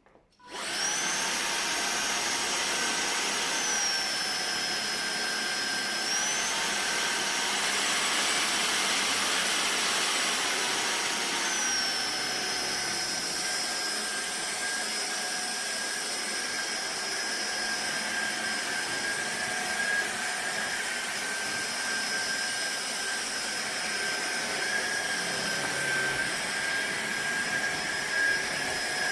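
Fieety cordless stick vacuum cleaner switching on and running with a steady rushing whine. The whine's pitch steps down, back up, and down again over the first twelve seconds, then holds steady.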